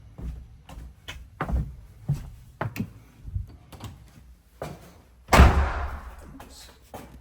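Footsteps on a hard floor inside an empty new house, then a door shutting with a loud thump about five seconds in.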